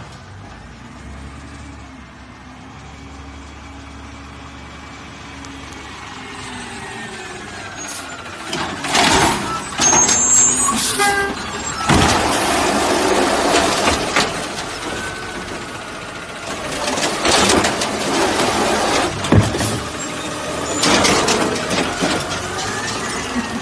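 Garbage truck running, its engine pitch rising and falling, with several loud hissing bursts about nine, twelve, seventeen and twenty-one seconds in.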